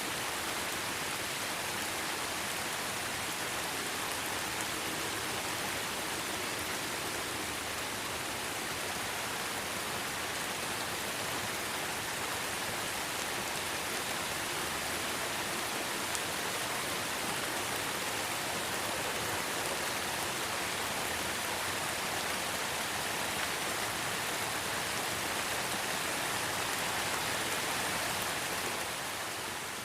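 Steady, even rainfall, a dense hiss of drops with no distinct separate hits.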